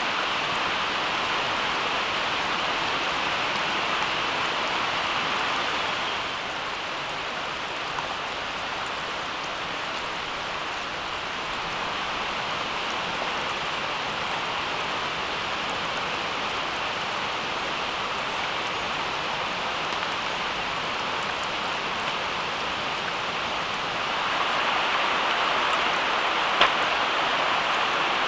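Steady rain falling, an even hiss that eases slightly a few seconds in and swells again near the end, with one sharp click near the end.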